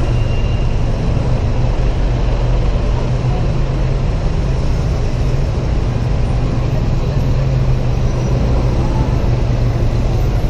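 Honda PCX 125 scooter's single-cylinder four-stroke engine running steadily at cruising speed. Its low hum sits under a constant rush of wind and road noise on the helmet camera.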